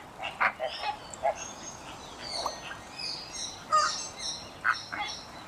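Birds calling: a few short, lower calls near the start, then a run of quick high chirps and whistles, with another lower call near the end.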